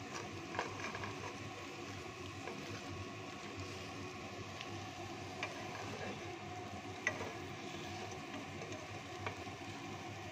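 Halloumi cubes frying in a nonstick pan, a steady soft sizzle, with a wooden spatula stirring them and knocking against the pan in a few sharp clicks, the loudest about half a second in and about seven seconds in.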